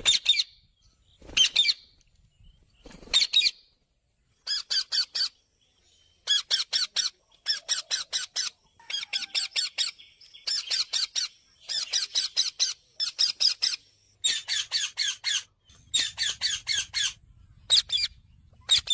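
Pet parrot calling in rapid runs of shrill, high-pitched notes, several notes to a run. The runs repeat with short pauses, brief at first and longer from about six seconds in.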